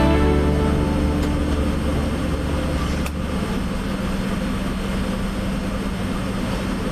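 Steady low rumble and hum of a Boeing 717-200 jet airliner, with a few fading tones in the first second.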